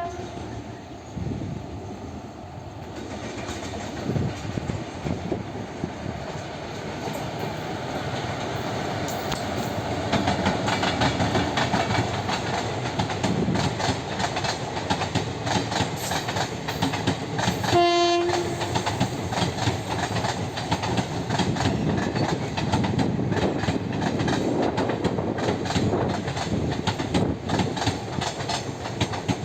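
Train running on the rails, a steady rumble and rattle of wheels that grows louder over the first ten seconds or so. About eighteen seconds in, a short blast of the locomotive horn.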